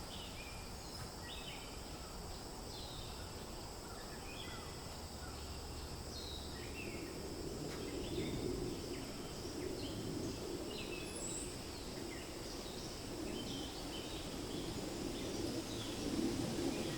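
Forest ambience: many short bird chirps and calls over a steady hiss, with a low rush of wind swelling in after about seven seconds.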